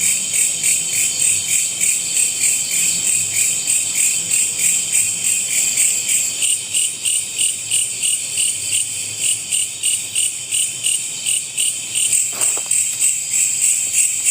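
Loud chorus of night insects, a high-pitched trill pulsing steadily about two to three times a second.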